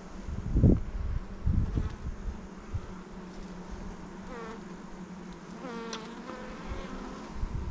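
Honeybees buzzing around an open hive: a steady hum, with single bees buzzing close by, their pitch bending up and down, in the second half. A few low thumps about a second in and again near the end.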